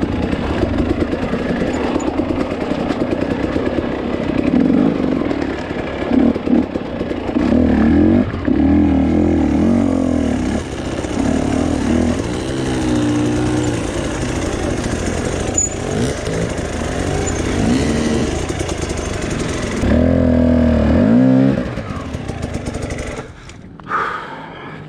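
Two-stroke dirt bike engine revving up and down in bursts under load, with louder pulls about eight seconds in and again near twenty seconds. The engine falls much quieter near the end.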